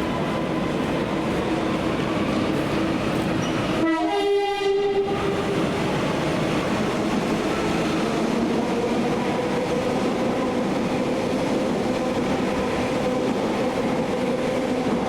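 Train running through the station with a steady rumble and hum, and a short horn blast about four seconds in.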